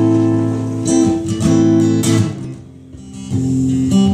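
Acoustic guitar strumming sustained chords, a few separate strums ringing out, with a short lull about two and a half seconds in.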